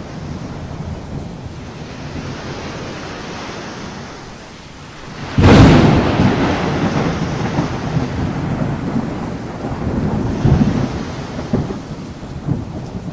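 Thunderstorm with steady rain. About five seconds in a sharp thunderclap cracks, then a long rolling rumble fades slowly, with a few more low rumbles near the end.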